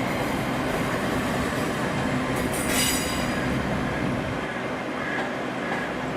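A train moving through the station, its steel wheels squealing on the rails over a steady running rumble, with a couple of brief louder squeals about two and a half to three seconds in. The rumble eases off in the last couple of seconds.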